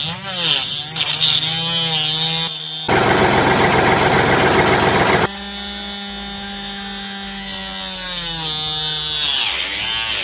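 Small motor whirring with pitched tones that bend and then hold steady. About three seconds in comes a loud, harsh two-second burst of sawing noise.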